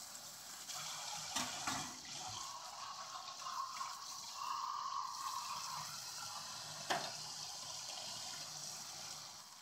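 Water running from a tap and splashing as a clogged dishwasher filter is rinsed under it, with one sharp knock about seven seconds in.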